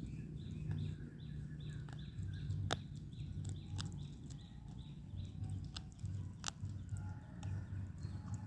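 Puppies feeding: a run of short high squeaks, about three a second, with scattered wet clicks of lapping and chewing.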